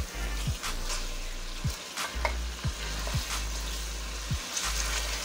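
Goat trotters sizzling as they are fried in masala, stirred with a silicone spatula that scrapes and knocks against the metal pan every half second to second.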